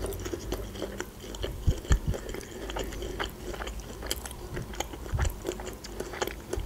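A person chewing food close to the microphone, with many small irregular mouth clicks.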